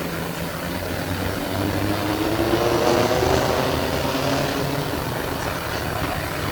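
Onboard an SW5 class tram in motion: a whine from the traction motors and gearing rises in pitch and swells, typical of the tram picking up speed, then fades away, over a steady low hum.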